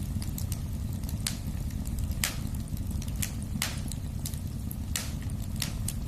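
Wood fire burning in a fireplace: a steady low rumble of flames with irregular sharp crackles and pops, two or three a second.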